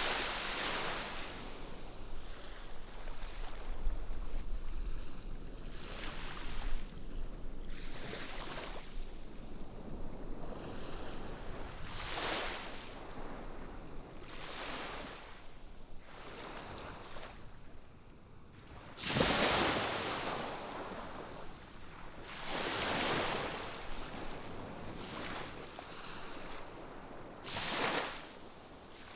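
Ocean surf breaking on the shore: one rushing wash after another swells and fades every few seconds, the loudest about two-thirds of the way through.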